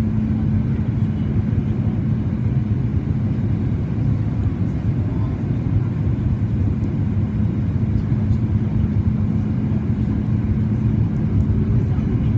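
Cabin noise of a Boeing 737 MAX 8-200 in flight, heard from a seat near the front: a steady low rumble of CFM LEAP-1B engines and airflow. A steady hum under it fades partway through and returns near the end.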